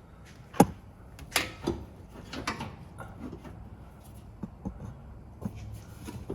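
Metal parts and hand tools clanking and knocking during a muffler installation: one sharp knock about half a second in, a few more around a second and a half to two and a half seconds in, then lighter clicks.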